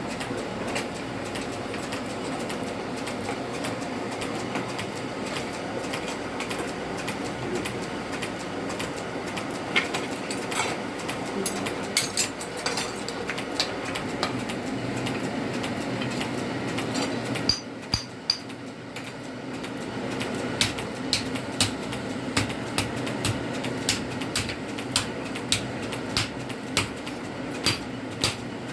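Hammer blows on steel being forged at an anvil: scattered sharp metallic strikes that settle into a steady run of about one blow a second in the last third. Under them a steady rumble runs on, dropping away briefly about two-thirds of the way through.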